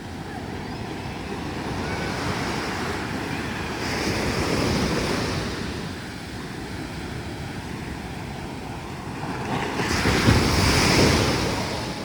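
Rough surf breaking on the beach: two waves crash and wash up, one about four seconds in and a louder one near the end, over a steady rush of sea and wind on the microphone.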